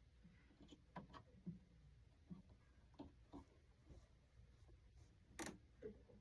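Near silence with a few faint, scattered clicks and taps, the clearest about five seconds in.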